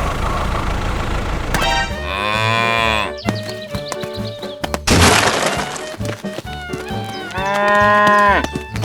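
Two long moo-like calls, each rising and then falling in pitch for about a second, over background music, with a short crashing burst between them.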